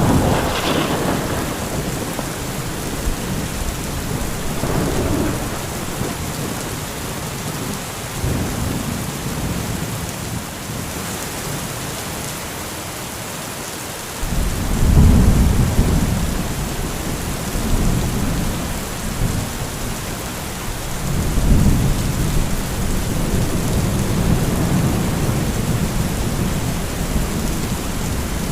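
Thunderstorm: steady heavy rain with thunder. A sharp crack comes right at the start, then lighter rumbles. About halfway through a loud, deep rumble begins suddenly, and another long rumble follows later.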